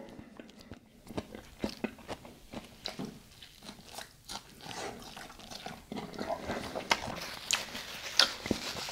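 A person biting into and chewing a soft-shell spicy pork taco, close to the microphone: irregular wet clicks and smacks of chewing, a little busier after about six seconds.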